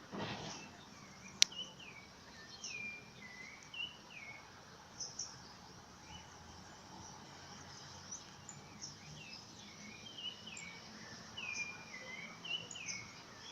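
Birdsong: repeated short chirps sliding downward in pitch, coming in two runs, over a steady outdoor hiss. A single sharp click sounds about a second and a half in.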